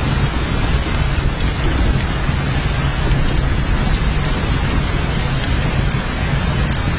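Steady heavy rain: a dense, even hiss with a deep low rumble underneath and scattered sharp drops ticking.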